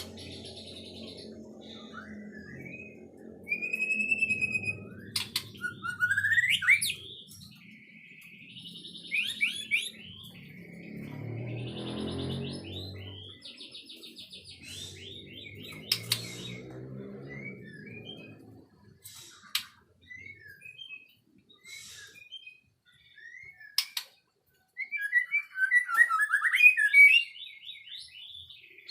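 White-rumped shama singing: a string of varied whistled phrases with rising and falling notes, ending in a loud, rapid run of notes near the end. A low humming layer with several tones lies underneath for the first two-thirds.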